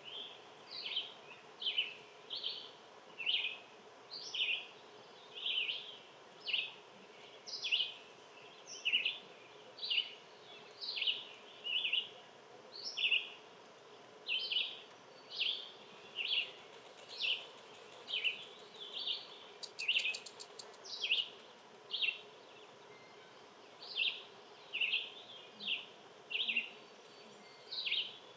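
A songbird calling over and over, a short high chirp that slides downward, repeated steadily about one and a half times a second. A faint steady hum lies underneath, and a brief rapid ticking comes about twenty seconds in.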